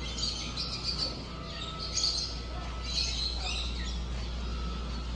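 Many caged birds chirping and calling at once, a busy high chatter over a steady hum.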